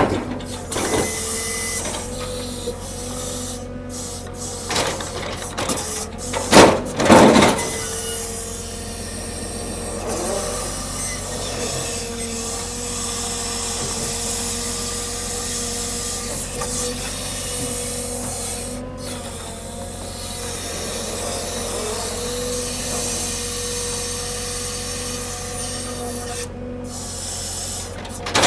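Log-unloading machinery running with a steady whine, with a few loud metal clanks about six to seven seconds in.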